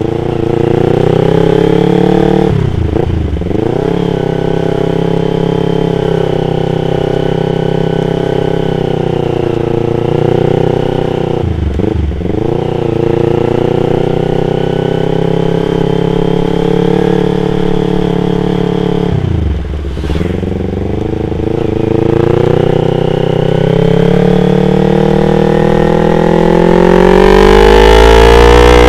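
Yamaha R25's 249 cc parallel-twin engine running under way. Its pitch holds fairly steady but dips sharply and recovers three times, then climbs steeply near the end as the engine revs up.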